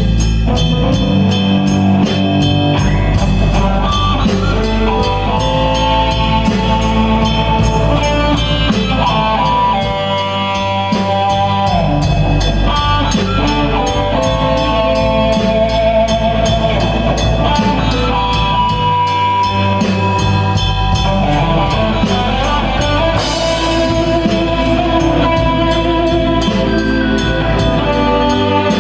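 Blues-rock band playing live: an electric guitar lead of held, bending notes over a drum kit keeping a steady beat and a bass line.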